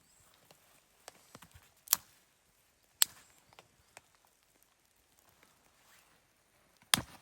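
Irregular sharp cracks and knocks, three loud ones about two, three and seven seconds in, with fainter clicks between.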